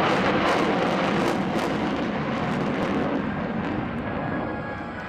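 Avro Vulcan bomber's four Rolls-Royce Olympus turbojets, a loud, even jet noise that fades over the last couple of seconds as the aircraft draws away.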